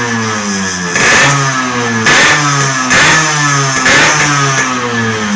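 Yamaha RX King two-stroke single-cylinder motorcycle engine through a bored-out 'bobok' exhaust, its throttle blipped about once a second. Each blip is a sharp rev whose pitch falls back toward idle before the next.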